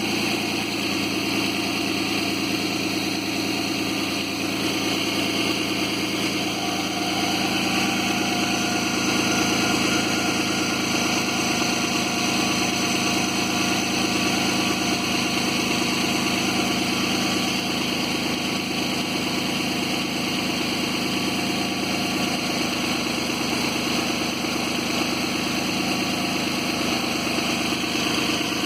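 Suzuki Grand Vitara's 2.7-litre V6 engine idling steadily, recorded for an extraneous noise the owner is trying to trace.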